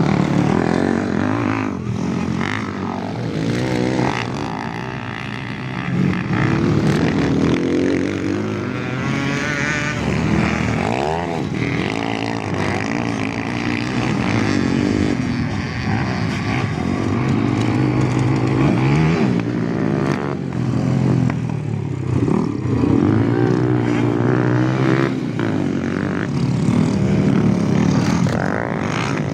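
Several motocross bike engines racing, their pitch rising and falling again and again as the riders open and close the throttle.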